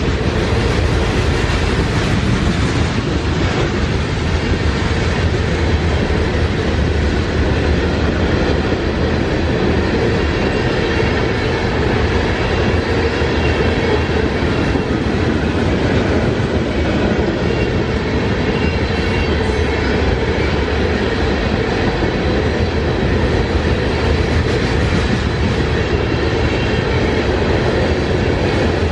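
Freight train cars rolling past at close range: a steady rumble of steel wheels on rail with clickety-clack over the rail joints.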